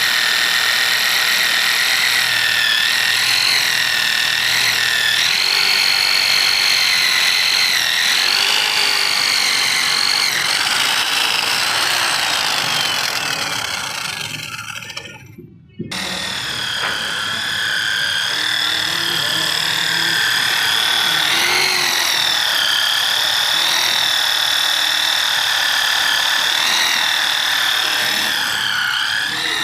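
Electric drill boring a hole in the side of a steel truck chassis rail: a steady high whine that wavers in pitch under load. It fades and stops about halfway through, then starts up again at once.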